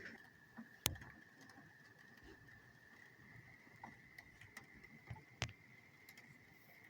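Big raindrops falling, heard as scattered faint taps, with two sharper, louder drop hits about a second in and about five and a half seconds in. A faint steady high tone runs underneath.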